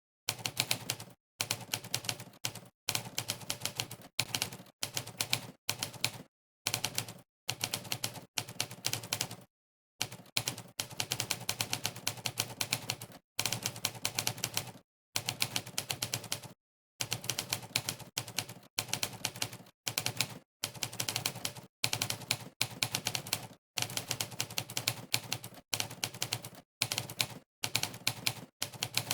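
Fast typing voiced by a sampled typewriter key-strike sound effect, one clack per keystroke, in rapid runs broken by short gaps of dead silence every second or two.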